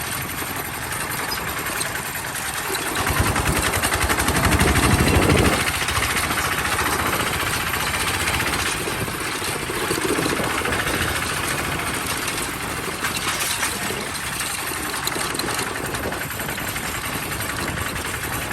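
Bulldozer's diesel engine running steadily. It grows louder about three seconds in, as under load or revving, and eases back after about five and a half seconds.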